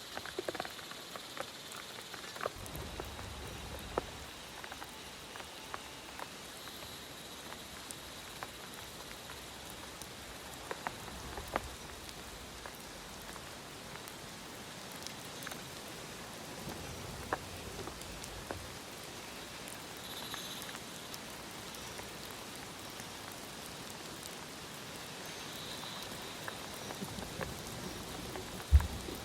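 Steady rain falling, with scattered sharper drops ticking through it. A single loud knock comes near the end.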